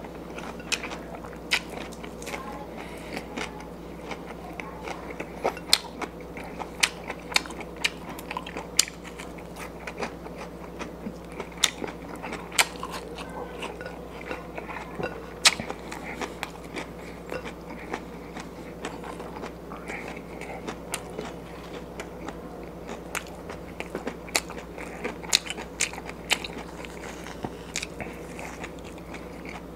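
A person chewing and biting food close to the microphone, with many irregular sharp crunches and mouth smacks, over a faint steady hum.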